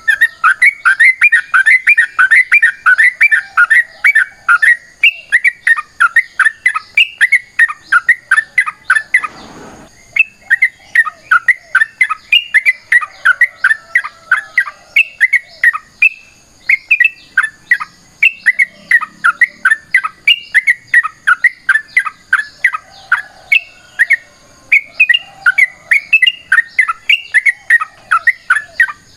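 Yellow-vented bulbul (trucukan) singing a long, fast run of short chattering notes, the rapid 'ropel' fighting song. The run breaks off briefly with a low thud about a third of the way through, then carries on.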